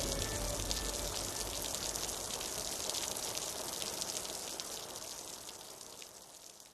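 Rain falling, an even hiss full of fine drop ticks, with the last of the music dying away in the first second or so; the rain slowly fades out toward the end.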